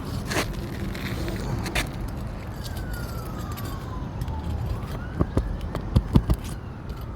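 Several sharp metallic clicks and taps of a tool working a long shingle nail loose from an asphalt shingle, loudest in the last two seconds. Under them runs a steady low rumble, and a siren's wail falls and then rises again in the background.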